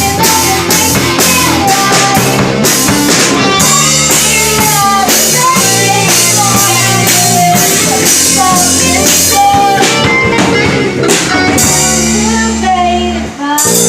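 A rock band playing a pop-rock song: drum kit with cymbals, electric guitar and bass chords under a melody line. Near the end the drums drop out for a moment over held chords, then the full band comes back in.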